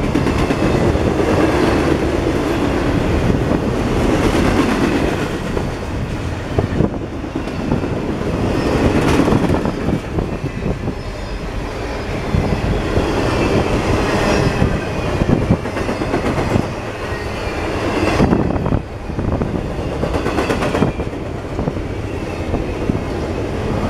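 Double-stack intermodal container train rolling past at close range: a steady rumble and clatter of steel wheels on the rails, with rhythmic clacks as the trucks cross rail joints.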